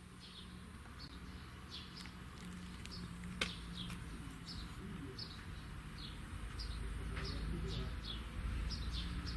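Small birds chirping: many short, falling chirps, about two a second, over a steady low hum, with one sharp click about three and a half seconds in.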